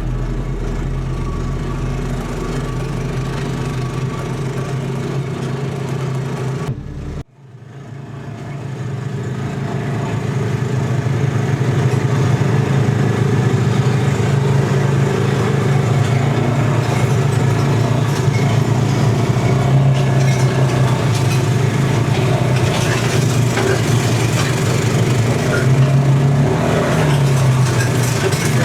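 Small four-stroke engine running steadily, from a tow-behind flail mower rig. The sound cuts out abruptly about seven seconds in, then fades back up and holds steady.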